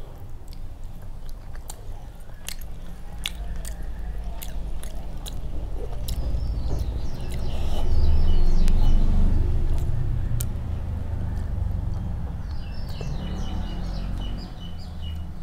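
Close-miked chewing and wet mouth sounds of someone eating rice mixed by hand with fish curry and dal, with small sticky clicks as fingers work the rice on the plate. Loudest about eight seconds in, as a handful goes into the mouth.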